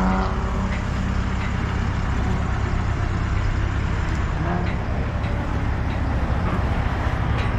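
Engine of the boom machine carrying the sign, running steadily under load.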